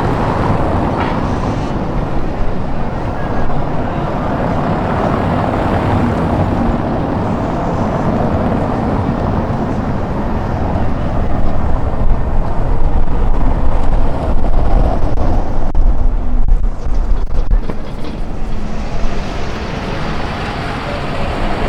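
Wind gusting over the camera microphone, a continuous low rumbling buffet that grows louder about halfway through and eases off again near the end.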